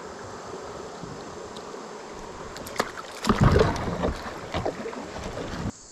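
Water noise around a kayak on a river, then a cluster of loud knocks and splashes against the boat about three seconds in, followed by several lighter knocks. It cuts off suddenly near the end.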